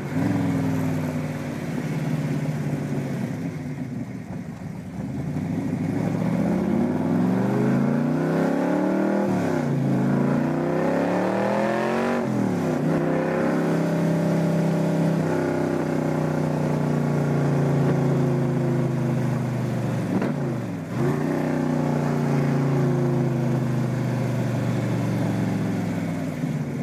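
Aluminum-bodied Cobra's V8 engine heard from the car, accelerating hard with the revs climbing and falling back at two gear changes, then running steadily at cruising speed. There is one brief dip in the revs near the end.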